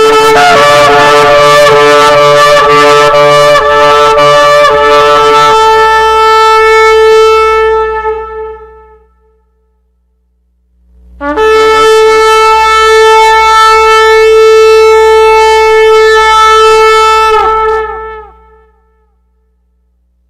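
Shofar blown in two long, loud blasts of about eight seconds each with a short pause between them; each holds one steady note rich in overtones and tails off at the end, and the first flutters rapidly for its first five seconds or so.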